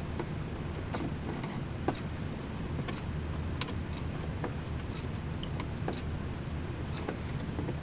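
Light clicks and taps of hand tools working nails out of a wicker basket's hinge, with two sharper clicks about two and three and a half seconds in, over a steady low hum.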